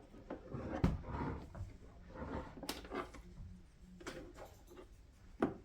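Scattered light clicks and knocks of hard plastic center-console parts being handled while working their clips loose.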